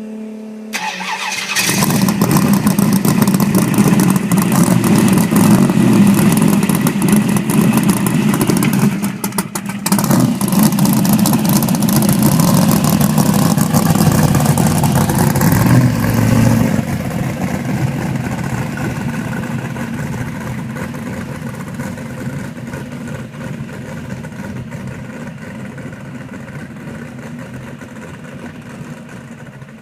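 Chevy Nova drag car's race-built 377 cubic inch small-block V8 with a big solid-roller cam, firing up right at the start and running loud, with a brief dip about nine seconds in. From about seventeen seconds in it fades gradually.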